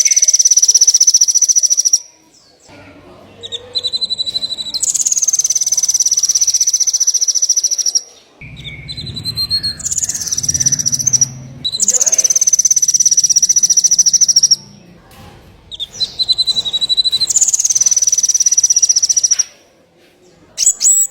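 A small songbird singing a masteran song: four rapid, buzzy trills, each starting on a lower note and jumping up to a high held trill lasting two to three seconds, with short pauses between. Near the end a short run of quick separate chirps follows.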